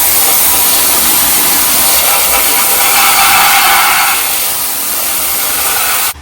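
Loud, steady hissing blast of a high-pressure jet aimed down into the bilge at a stuck bilge-pump float switch to free it. It cuts off suddenly near the end.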